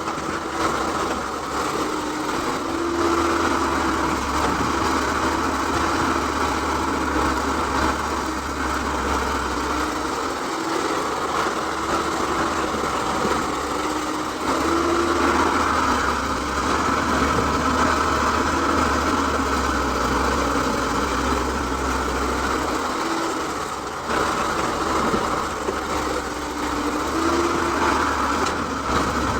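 Excavator engine running continuously, swelling and easing in slow cycles of roughly ten seconds as it works.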